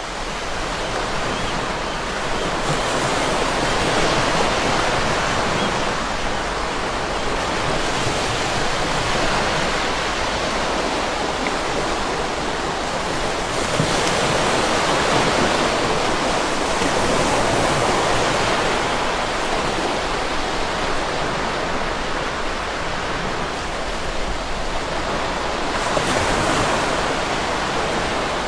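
Whitewater river rapids, a steady rushing roar of water that swells and eases a little now and then.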